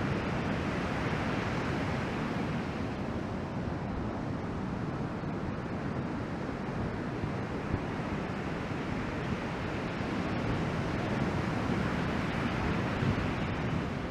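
Ocean surf from a typhoon swell washing steadily, with wind rumbling on the microphone.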